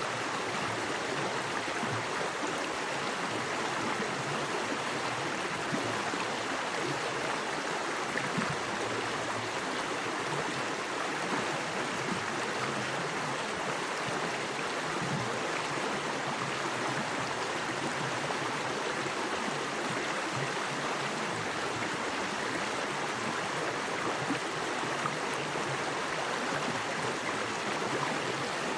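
Small forest creek with fast water rushing over rocks: a steady, even rushing.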